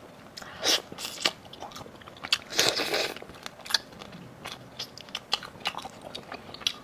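Close-miked biting and crunching into a big-headed prawn's shell and head, with irregular crackles and chewing. The loudest crunch comes just under three seconds in.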